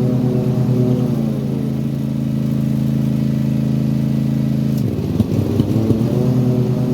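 Kawasaki FR691V V-twin engine on a Toro TimeCutter mower running warm, sagging in speed, then skipping and popping for about a second near the end before picking back up. The misfire shows up only once the engine is warm; the owner suspects failing ignition coils.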